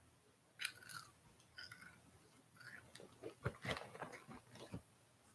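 Biting into and chewing crunchy veggie chips: a run of crisp crunches that starts about half a second in and is loudest in the second half.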